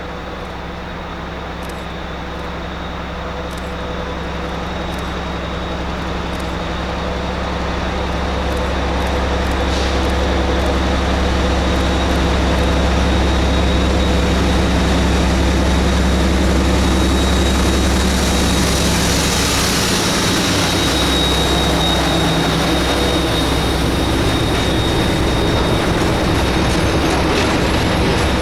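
Freight train headed by an ST44 diesel locomotive, its two-stroke V12 engine working hard as it labours uphill, with an SM42 diesel coupled behind; the deep, steady engine drone grows louder over the first dozen seconds as the train approaches. About twenty seconds in the engine note drops away and rolling wheel and wagon noise with a thin high squeal takes over.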